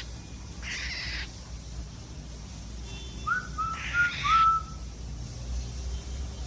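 Pet cockatiels calling: two harsh, raspy chirps, and about halfway through a quick run of four short whistled notes, the first sliding up.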